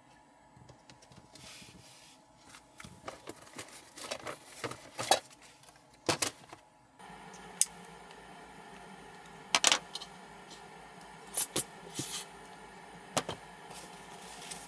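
Clicks, knocks and light rattles of small objects being handled in a small enclosed space; about seven seconds in, a steady low hum with a faint whine starts and keeps running under the clicks.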